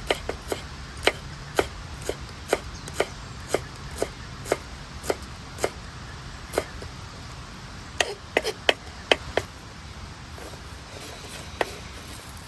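Knife chopping food on a cutting board: evenly spaced sharp knocks, about two a second, then a quick run of cuts about eight seconds in and a single one near the end.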